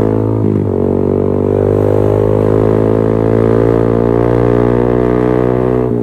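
Yamaha XSR 155's single-cylinder engine through a LeoVince GP Corsa Evo aftermarket exhaust, running loud with a deep, droning note. The pitch climbs slowly, with a brief drop about half a second in and another near the end.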